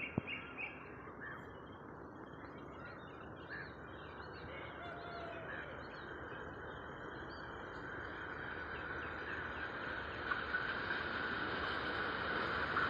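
Birds chirping in short calls over the steady, slowly building noise of an approaching express train hauled by a WAP-4 electric locomotive, growing louder as it nears; the chirps thin out in the last few seconds as the train noise takes over.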